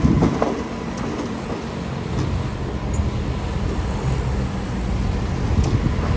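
Heavy diesel earthmoving machinery running steadily, a low engine rumble with a few faint clanks near the start.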